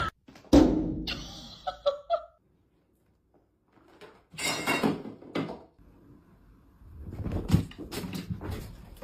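A loud thump about half a second in that dies away over about a second, followed by scattered knocks and clattering.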